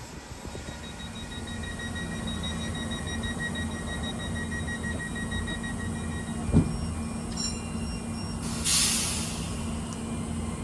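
A train running, with a steady low hum and a faint high whine that stops about six and a half seconds in. A single sharp knock comes just after, and a short burst of hiss about nine seconds in.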